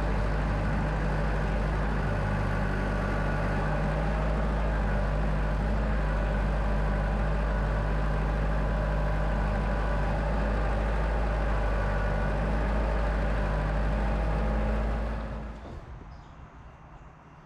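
Tractor engine idling steadily with a deep low hum, then shut off about fifteen seconds in and winding down to quiet.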